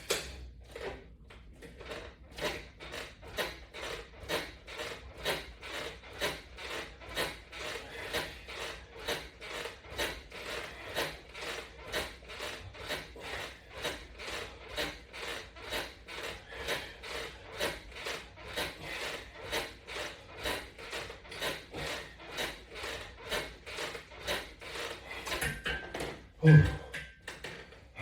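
Rhythmic rasping, about one and a half strokes a second, from pull-down crunch repetitions on a resistance band and strap. A short louder sound comes near the end.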